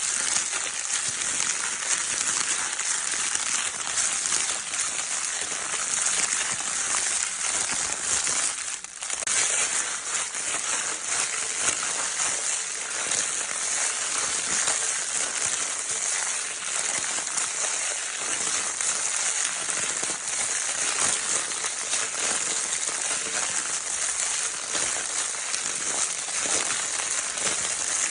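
Baby crinkle-paper toy being crinkled continuously: a dense, steady crackling, with a brief dip about nine seconds in.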